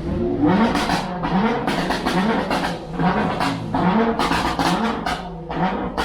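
Car engine revved in a series of short throttle blips, each a quick rising sweep with a rasping exhaust burst.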